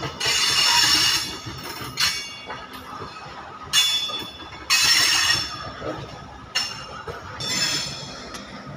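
Indian Railways freight train's open wagons rolling past, with sudden bursts of high-pitched metallic wheel screeching, about one a second, over a steady rumble.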